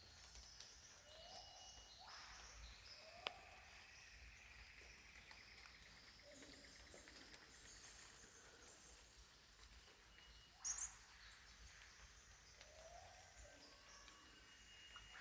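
Faint rainforest ambience of scattered bird calls: high chirps throughout, and a short low rising call repeated every few seconds. A sharp click comes about three seconds in, and a brief louder call or rustle about ten and a half seconds in.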